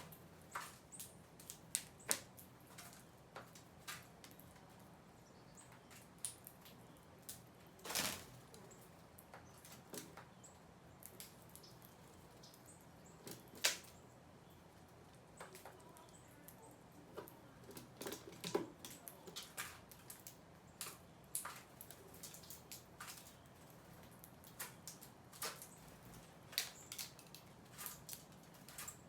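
Irregular light taps and clicks of small birds pecking and feeding, a couple of them louder, over a faint steady low hum.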